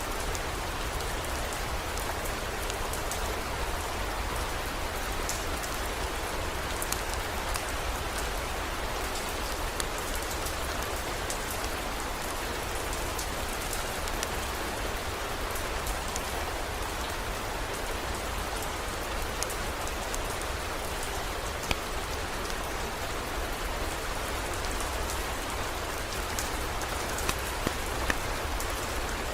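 Steady heavy rain with scattered sharp drop ticks over a low, even rumble, and a few louder ticks near the end.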